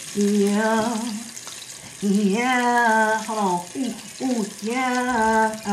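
Battered vegan chicken pieces sizzling in hot frying oil, a steady hiss, under a melody of long held, sliding notes that come in three phrases.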